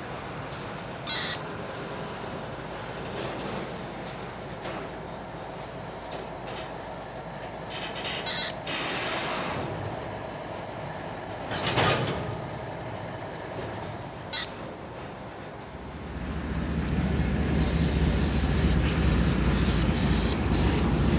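A train running on the track, with a few short sharp clicks from the wheels and rails. A deep low rumble builds and grows louder near the end.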